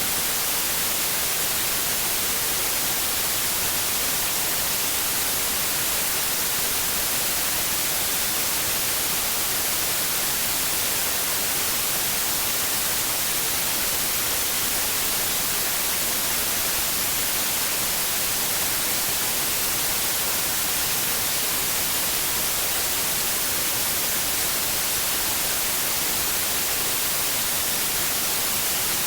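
Steady white noise: an even, unchanging hiss at constant level, strongest in the high frequencies, with no other sound in it.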